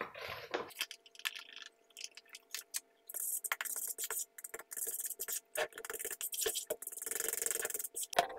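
Flour being added and worked into a bowl of dough: scattered light clicks and scrapes, with stretches of hiss from about three seconds in until near the end.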